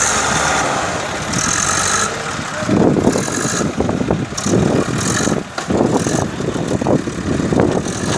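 Swaraj tractor's diesel engine running, with irregular loud surges from about three seconds in.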